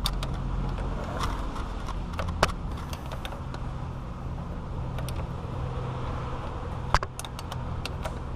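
Steel wrench clicking and clinking against the power steering pressure line fitting as it is worked one-handed: a few sharp metallic clicks, the loudest at the start and about seven seconds in, over a steady low hum.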